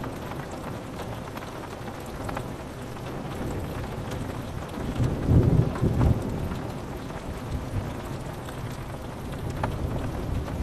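Steady rain with a low roll of thunder that swells about five seconds in and fades away.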